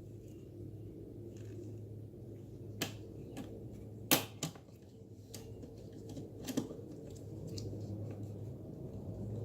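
Scattered sharp clicks and taps, about seven, from hands and tools working to squeeze and pull a fitting loose in a car's engine bay, the loudest a little past the middle, over a steady low hum.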